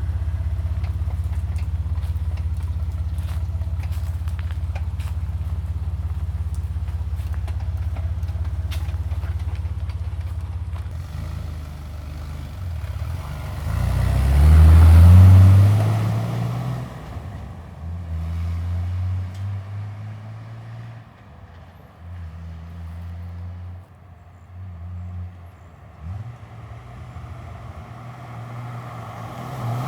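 2005 Jeep Wrangler LJ's 4.0 L inline-six, fitted with an MBRP muffler exhaust, idling steadily. About halfway through it pulls away with a loud swell of engine note that rises and then falls. After that the engine note rises and falls in separate stretches as it drives on with a low, grunty tone.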